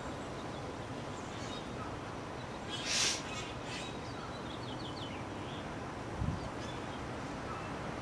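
Wild birds calling in spring woodland over a steady outdoor hiss: one loud, harsh call about three seconds in, then a quick run of short falling notes. A short low thump comes a little after six seconds.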